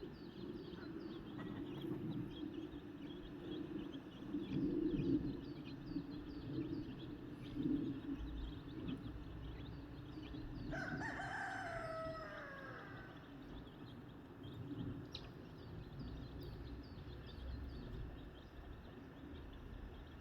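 A rooster crows once a little past halfway, a falling call of about two seconds, over continuous high peeping of chicks and a low background.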